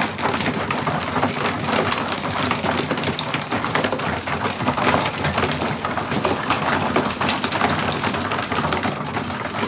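Racing pigeons in the loft: a dense, steady patter of wings and feet on wood, with some cooing underneath.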